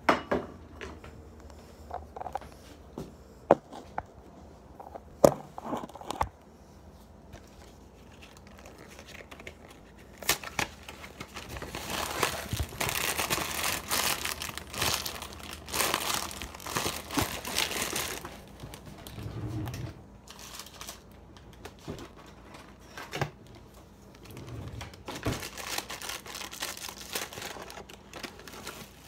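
Food packaging being crinkled and torn open by hand, in long rustling stretches, with a few sharp knocks and clicks in the first few seconds.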